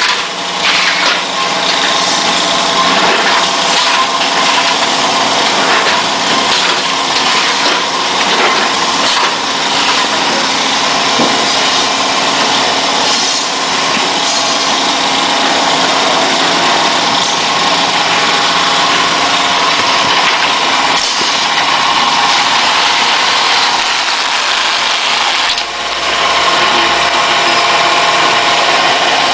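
Automatic carton packaging machine running: a steady mechanical hum with several held tones and a dense clatter of small clicks. It dips briefly near the end.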